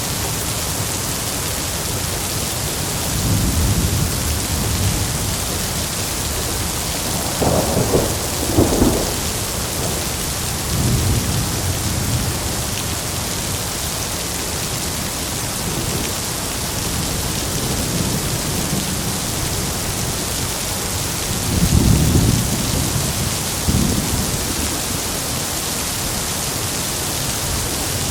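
Heavy rain falling steadily while thunder rumbles low in the background. Thunder swells louder twice, about eight seconds in and again near 22 seconds, with fainter rolls between.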